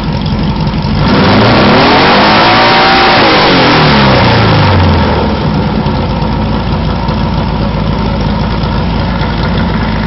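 Car engine running through a newly built, freshly welded exhaust: idling, then revved once about a second in, the pitch climbing and falling back to idle about five seconds in.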